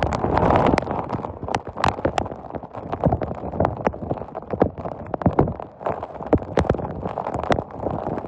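Storm rain pelting a hard surface: a steady rushing hiss with many irregular sharp knocks, several a second.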